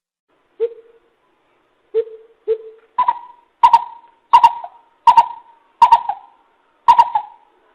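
Coucal (bìm bịp) calling in a series of hollow hoots: a few low notes, then a run of higher notes at an even pace, about one every 0.7 seconds.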